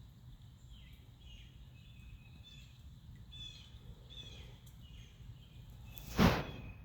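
Birds chirping with short, high notes over a steady low rumble. About six seconds in, one brief, loud burst of noise, a bump or rustle close to the microphone, stands out above everything else.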